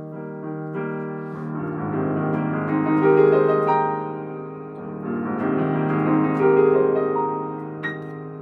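Piano playing the instrumental opening of a song in held chords, with a lower bass part coming in about a second and a half in and the playing swelling louder twice.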